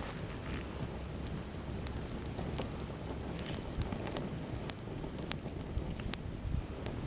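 Wood campfire crackling, with sharp pops coming every half second or so in the second half, over a steady low rumble.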